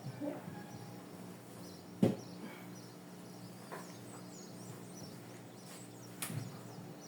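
Scattered knocks and light clatter of objects being handled during refrigerator cleaning, the loudest about two seconds in and another shortly after six seconds, over a steady low hum.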